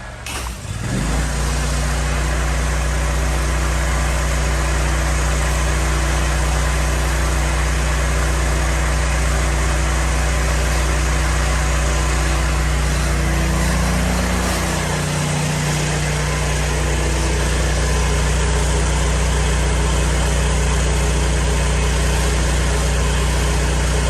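Pressure washer's engine running steadily under load with a constant hiss, coming up loud about half a second in, with a brief change in its note a little past the middle.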